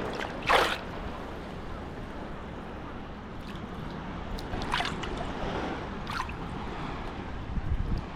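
Sea waves washing onto the beach in a steady rush, with wind on the microphone and a few short sharp splashes, the loudest about half a second in.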